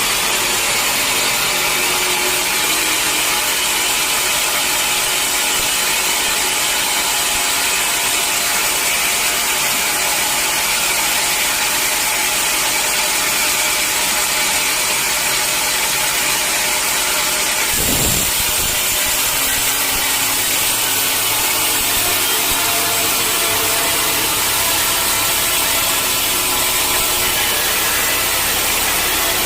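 Sawmill saw machinery running steadily: a dense, even mechanical noise with many held tones. There is a short low thump about eighteen seconds in.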